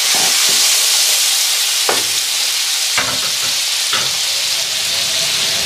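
Wet curry base sizzling hard in a metal wok, with a wooden spoon stirring and knocking against the pan a few times.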